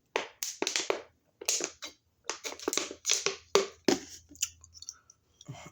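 Close-up crunching and chewing of raw green bell pepper: a quick run of crisp, wet crunches.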